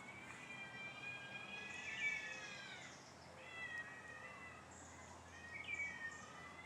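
Distant cats yowling and caterwauling at each other in a fight. First comes a long wavering yowl that rises about two seconds in, then shorter drawn-out calls in the middle and near the end. It is faint.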